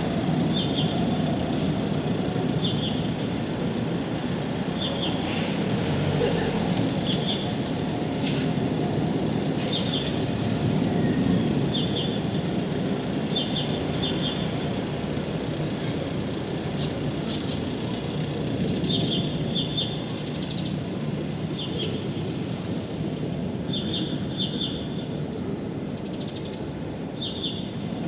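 A bird repeating a short, high chirping call every second or two, each chirp stepping down in pitch, over a steady low background noise that is louder than the bird.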